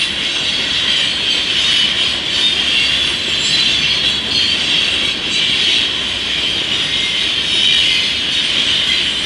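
Loaded stone hopper cars of a freight train rolling past close by: a steady rumble of wheels on rail with a continuous high-pitched wheel squeal.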